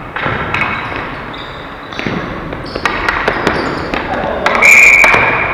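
Ball hockey play: sharp clacks of sticks and ball against the floor and boards, with players' shouts. About four and a half seconds in comes a loud, shrill referee's whistle blast lasting about a second, the loudest sound.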